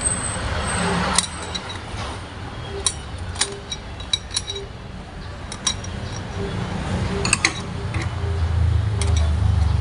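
Metal clutch plates and parts of a 5R55W automatic transmission clinking and tapping as the clutch pack is handled to check its clearance, scattered sharp clicks throughout. A low rumble underneath grows louder near the end.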